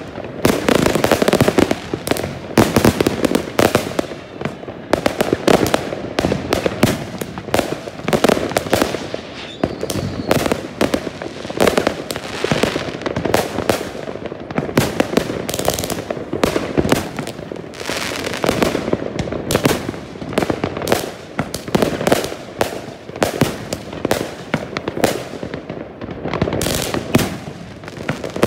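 SVEA Fireworks 'Electra' 41-shot battery cake firing its 20–25 mm shots in rapid succession: a dense, unbroken run of sharp launch thumps and bursting bangs, several a second.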